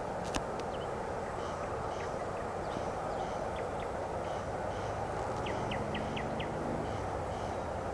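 Steady rumble of a freight train hauled by a VL10U electric locomotive, still far off and approaching, with birds chirping over it, including a quick run of four short chirps about two-thirds of the way through.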